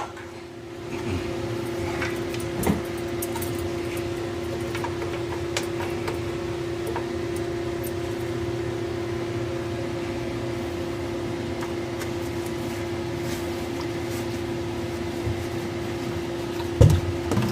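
Steady electric motor hum at the furnace humidifier, carrying one constant tone, with a few faint clicks. A louder knock comes near the end.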